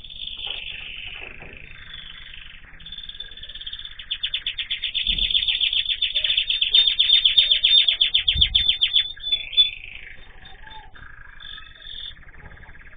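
Caged songbirds chirping and singing, with a long, fast trill of repeated high notes from about four to nine seconds in.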